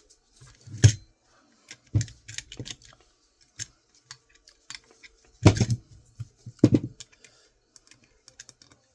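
Small metal hard-drive parts and hand tools being handled and set down: irregular clicks and clinks with a few heavier knocks, the loudest about a second in and twice between five and seven seconds.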